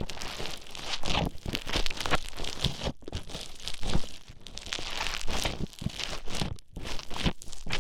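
Play Foam (bead modelling foam) being squished and kneaded right at the microphone: a dense, irregular crackling and crunching.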